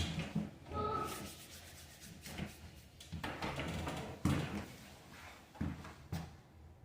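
Irregular rubbing, rustling and knocks of objects being handled, with a sharp knock about four seconds in and a short voice sound about a second in.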